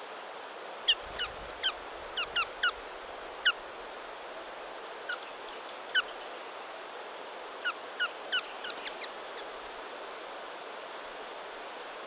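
Small birds calling: short, sharp notes that slide steeply downward, some single and some in quick runs of two or three, scattered irregularly over a steady background hiss.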